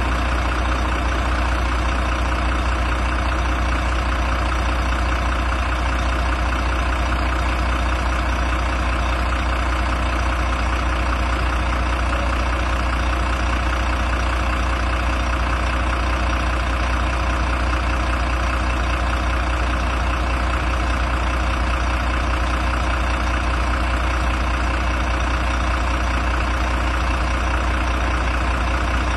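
Volvo FM 300 truck's six-cylinder diesel engine idling steadily.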